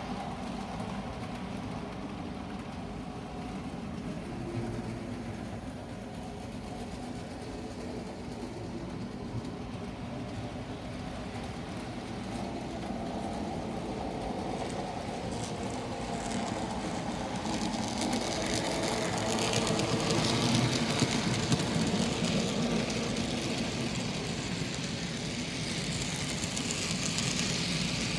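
Arnold N scale U28c model locomotive (standard DC version) and its freight cars running on the layout track: a steady hum with a fine clicking rattle of wheels on rail, growing louder from a little past halfway as the train comes near and passes close.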